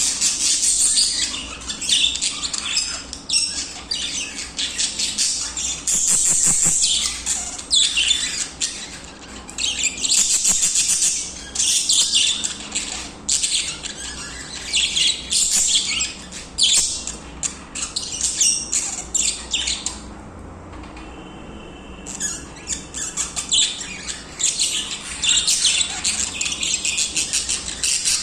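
Several budgerigars singing and chirping, a dense run of quick, high chirps, with a short quieter lull about twenty seconds in.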